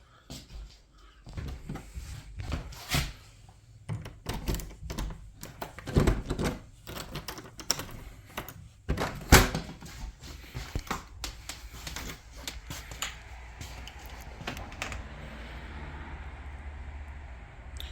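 A run of irregular knocks, clicks and thuds from things being handled in a small room, the loudest two about six and nine seconds in, with a steady low hum setting in for the last few seconds.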